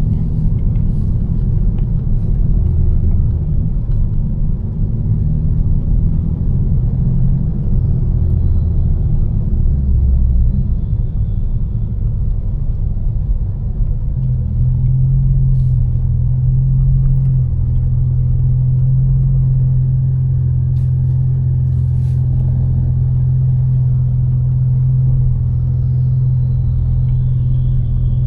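Tuned BMW M4's twin-turbo inline-six, with aftermarket exhaust and catless downpipes, running under way as a loud low rumble. About halfway through it settles into a steady drone at constant revs.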